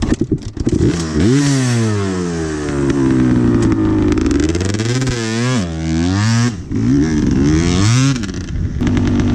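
Honda CR250 two-stroke dirt bike engine revving up and down in several swells and quick blips as it is ridden, then settling to a steadier note near the end.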